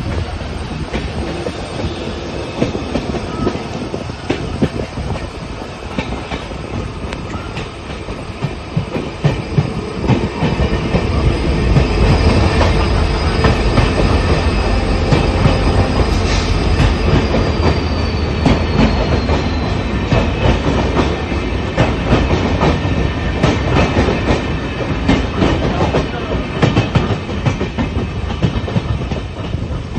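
Train heard from on board, its wheels clattering over the rail joints above a steady rumble that grows louder about a third of the way in. About halfway through, a faint high squeal slides down in pitch.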